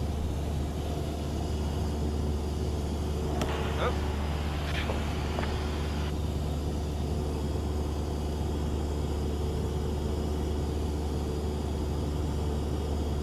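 Cessna 172's piston engine and propeller droning steadily in cruise flight, with faint brief voice sounds about a third of the way in.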